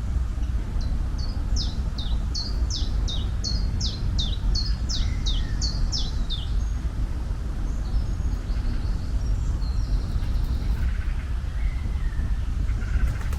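Birdsong: a small bird repeats a quick run of high, down-slurred notes, about two or three a second, for roughly six seconds, then fainter scattered calls follow. A steady low rumble of outdoor noise runs underneath.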